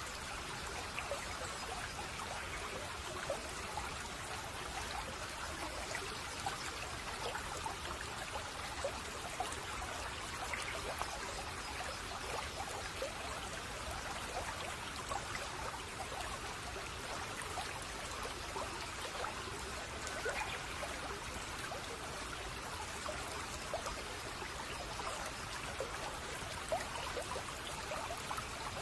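A shallow brook babbling and trickling steadily, with many small splashes and gurgles.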